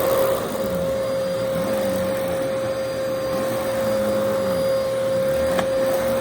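Vacuum cleaner running steadily with a constant motor whine, under a lower hum that dips and rises every second or so. A short click comes near the end.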